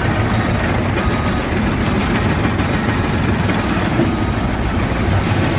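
Heavy vehicle engine running steadily, with a dense, even noise that is strongest in the low range.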